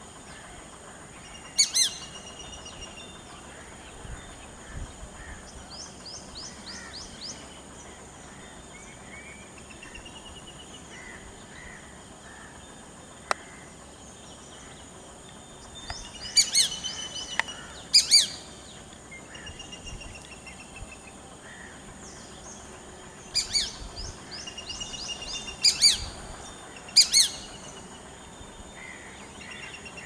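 Bird calls: loud, sharp, high calls about two seconds in and again in clusters over the second half, several coming in quick pairs, with rapid runs of thin high notes and softer chirps in between.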